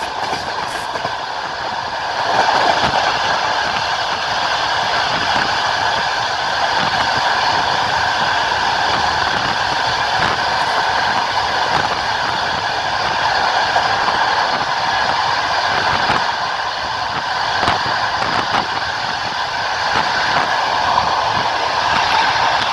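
Passenger train heard from aboard, running along the track: a steady rolling noise of the wheels on the rails, with occasional clicks at irregular intervals.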